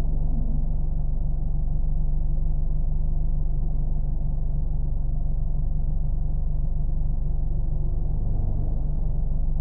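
Car engine running steadily, a low, even rumble with no changes in speed.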